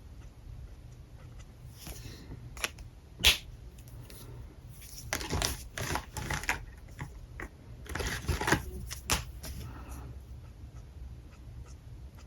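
Alcohol markers on paper: a few sharp clicks and taps, the loudest about three seconds in, then two stretches of scratchy marker strokes a few seconds apart.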